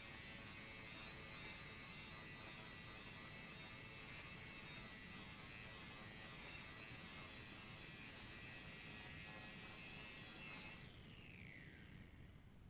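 Electric grinder sharpening a lawn-mower blade: its motor runs with a steady buzzing whine, then is switched off near the end and winds down in a falling pitch.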